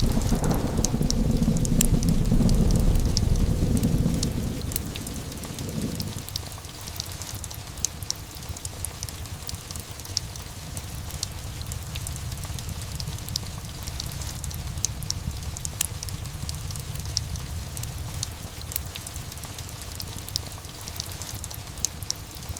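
A loud rumble of thunder over steady rain, cutting off abruptly about six seconds in. Heavy rain then continues alone, with scattered sharp crackles of a wood fire.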